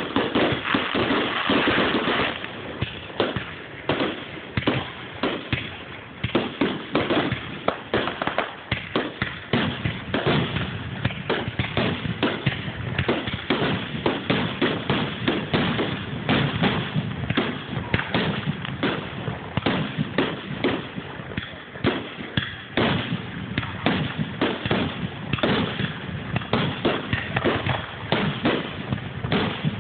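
Aerial fireworks display: a dense, unbroken run of bangs and crackles as many shells burst in quick succession.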